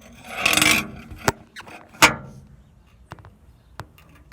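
Handling noise from the camera being set in place: a short scuffing rush, a sharp click, then a louder knock about two seconds in, followed by a few faint ticks.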